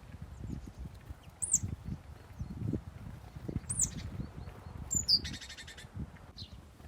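Small birds chirping: a few short, high chirps that sweep downward in pitch, and about five seconds in a brief rapid, buzzy rattle. Irregular low rumbling runs underneath.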